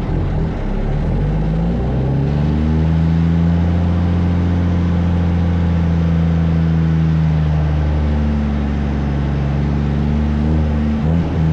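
Kenworth truck's diesel engine revving up about a second in and holding a steady high rev, easing back slightly later on and turning uneven and chugging near the end.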